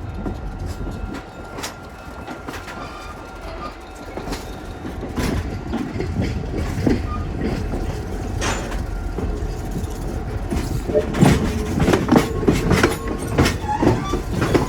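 Passenger railroad car rolling along the track, its wheels clacking irregularly over rail joints and switches under a steady rumble. The clacks come thicker in the second half, and a faint steady whine runs under them.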